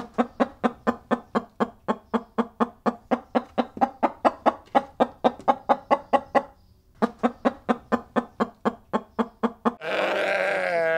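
Chicken clucking in a rapid, even series of short clucks, about four to five a second, with a brief pause a little past the middle. In the last second a sheep begins a long bleat with a quavering pitch.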